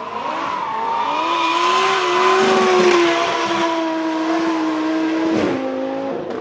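Lamborghini Huracan drift car's engine held at high revs with tyres squealing through a drift, louder toward the middle; the engine note drops suddenly near the end.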